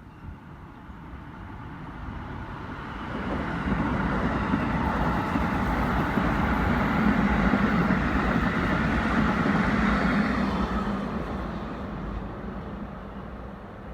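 A Keikyu Line electric train running past on the track, its sound building over the first few seconds, staying loud through the middle and fading away near the end.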